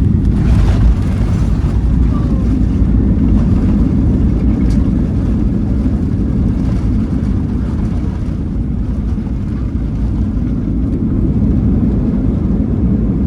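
Steady low rumble of a Boeing 737-800's CFM56 jet engines and airflow, heard inside the passenger cabin. There is a brief louder rush about a second in.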